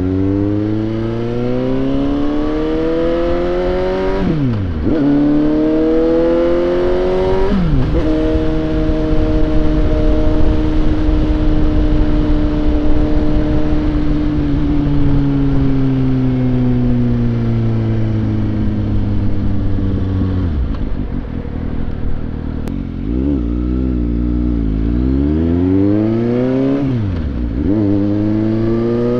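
Suzuki GSX-S750's inline-four engine accelerating through the gears: the revs climb and drop sharply at two upshifts a few seconds apart, then hold and slowly fall while cruising. Near the end the revs sink low and waver, then climb again under acceleration, with a steady rush of wind noise throughout.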